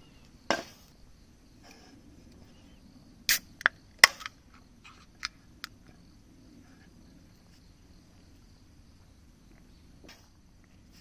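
A handful of sharp clicks and knocks, hard objects tapping or set down. There is a single one about half a second in, a quick cluster from about three to six seconds in with the loudest near four seconds, and one more near the end. Under them runs a faint steady high chirring, like insects.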